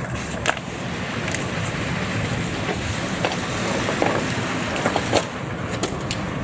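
Steady wind rushing over the microphone while moving outdoors, with a few light clicks and knocks scattered through it.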